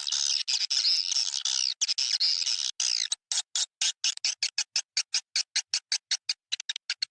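Swiftlet calling-sound recording, played to lure edible-nest swiftlets into a swiftlet house: a dense, high twittering chatter of swiftlets, changing about three seconds in to rapid separate chirps, about six or seven a second.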